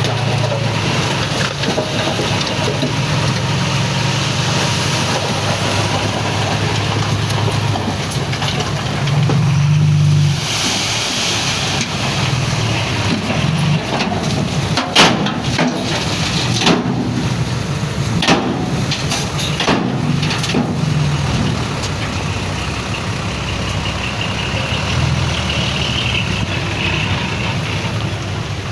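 Heavy diesel earthmoving machinery running under varying load, with a short hiss about ten seconds in and several sharp metallic clanks midway.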